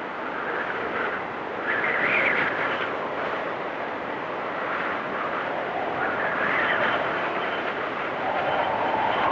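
Blizzard wind blowing in gusts, a rushing whoosh that swells and eases every few seconds.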